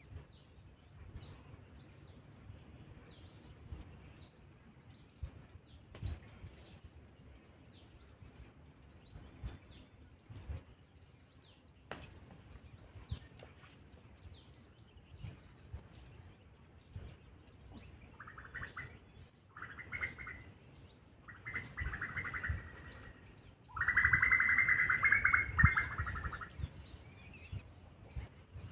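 Small birds chirping over and over with short, high calls, over a low outdoor rumble. About two-thirds of the way through, a louder, harsher sound comes in several bursts and is loudest near the end.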